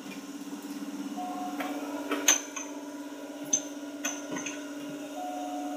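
Inside a Seibu 2000 series electric train car: a steady hum with a few even tones from the train's equipment, broken by several sharp clicks and knocks, the loudest a little over two seconds in.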